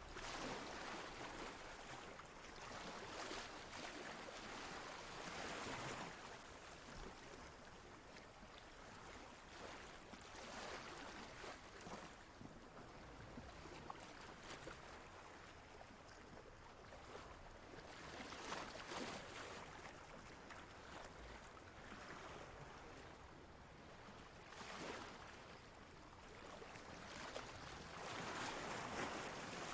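Ocean waves washing in a faint, steady hiss that swells and fades every few seconds.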